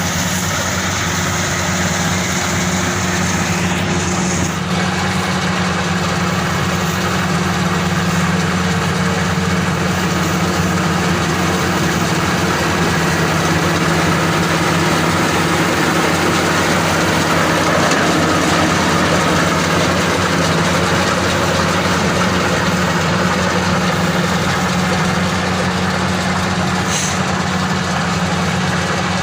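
Maxxi Bimo 102 SS combine harvester's engine running steadily: a loud, even low hum with no change in speed.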